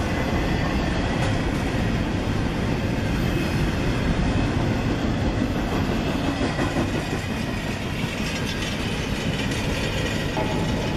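Double-stack intermodal freight train's well cars rolling past on steel wheels, a steady heavy rolling noise of wheels on rail, easing a little toward the end as the last cars go by.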